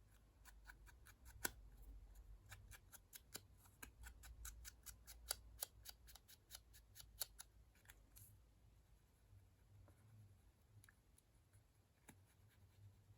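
Faint, quick tapping, about four taps a second, of ink being dabbed onto the edges of card leaves, thinning to a few scattered taps after about seven seconds.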